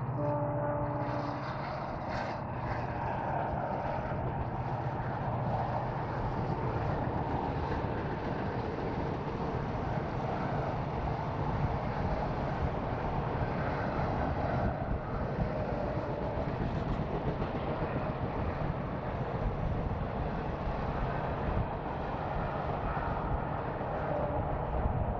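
Diesel-locomotive-hauled express passenger train running past, a steady low rumble of the engine and the coaches' wheels on the rails.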